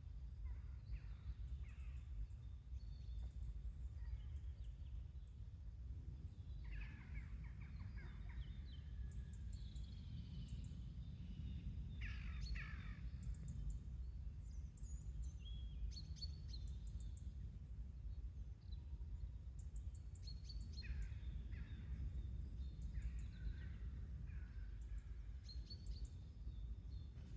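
Scattered bird calls and chirps, some short high chirps and a few falling calls lower down, over a steady low rumble in the background.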